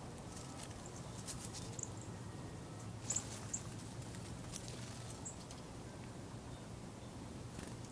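Small songbirds at a feeder giving a few short, very high chip calls, with a few light ticks, over a steady low hum.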